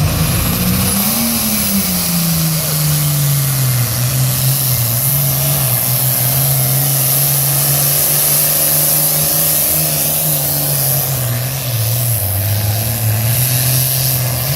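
A 1,500-horsepower super farm class International pulling tractor running hard under load on a pull. The engine pitch rises over about the first second, then drops and holds, wavering up and down.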